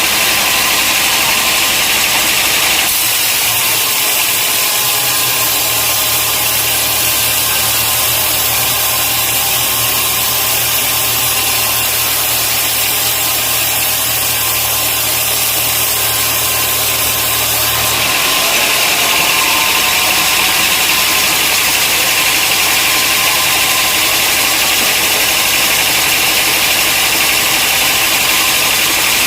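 Sawmill machinery running steadily with engine noise. The sound changes abruptly about three seconds in and again past the middle, with a low hum added in between.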